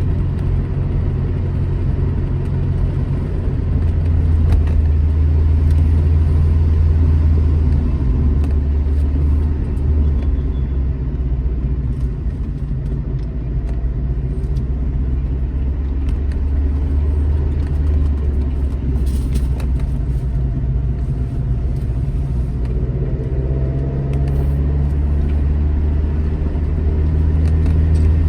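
Alfa Romeo GT Junior's twin-cam four-cylinder engine pulling steadily on the road, its drone easing slightly midway, then rising in pitch as it accelerates near the end.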